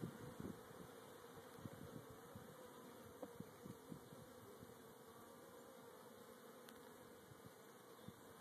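Faint steady hum of a mass of Italian honeybees on an open hive, with a few light knocks in the first seconds.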